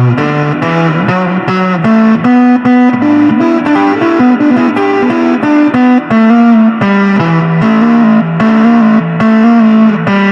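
Music: a distorted electric guitar with effects playing a lead line of held notes that change pitch every half second or so. This is an instrumental break in a song.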